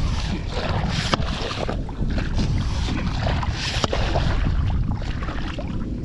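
Wind buffeting the microphone on an open beach at low tide, a heavy rumble under the hiss of surf that swells and fades, with a few sharp clicks.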